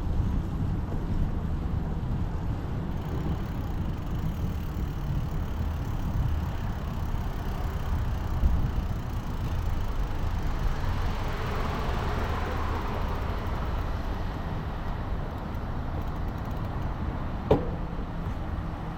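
Steady low wind-and-road rumble from riding a bicycle on city streets, with a motor vehicle passing about halfway through, its noise swelling and fading. A single sharp click comes near the end.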